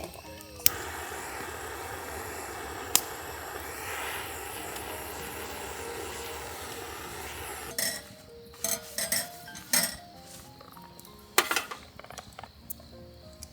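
Steady hiss as oil is burned onto a hot iron griddle plate to season it. It stops about eight seconds in, followed by scattered light metallic clinks of utensils and cookware over soft background music.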